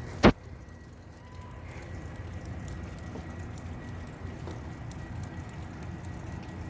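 Steady rain with faint scattered drop ticks, and one sharp knock a moment after the start.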